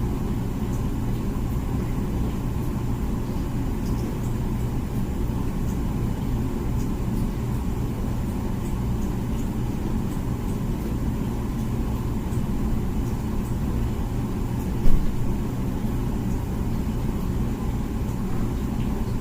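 Comfee dishwasher running its wash cycle with a steady low hum, and one brief knock about fifteen seconds in.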